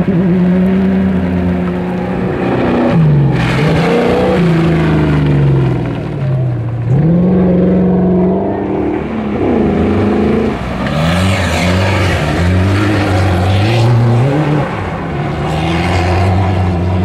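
Off-road race car engines revving hard on a mud track, the pitch climbing and dropping again and again as they shift and lift off. At times two engines are heard at once.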